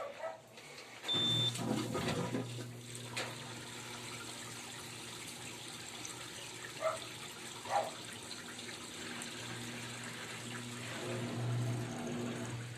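Electrolux LT12F top-load washing machine gives one short beep as the rinse setting is chosen, then water runs steadily in the machine with a low hum underneath, and two brief knocks about seven and eight seconds in. The beep and the working cycle show the newly replaced control and power boards working.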